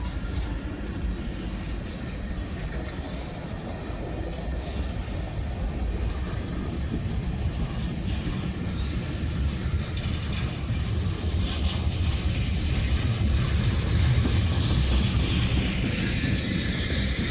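Freight train running along the track, a low rumble that grows louder over the second half as it draws near.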